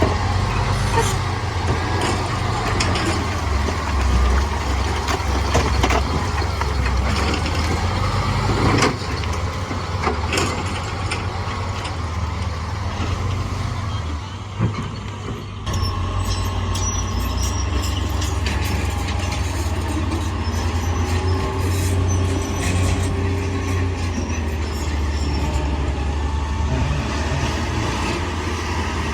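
Heavy diesel earthmoving machinery running steadily, with a few sharp knocks and clanks about a third of the way in.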